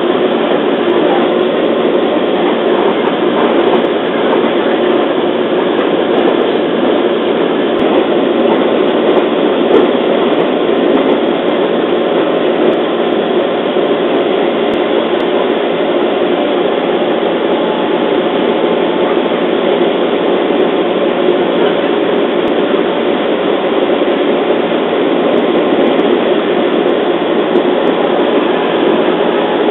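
Running noise heard inside a JR East 211 series electric multiple unit travelling at speed: a steady, even rumble of the wheels on the rails and the moving car.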